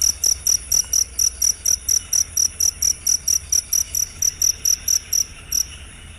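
Field cricket (jangkrik) chirping in a fast, even rhythm of short, high-pitched chirps, about four a second, that stops abruptly near the end.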